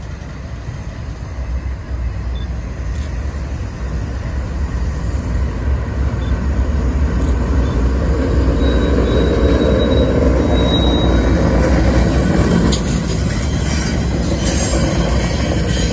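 Freight train's diesel locomotives approaching and passing close by: a low engine rumble and rolling-wheel noise that grows steadily louder over the first several seconds and stays loud as the lead locomotives go past.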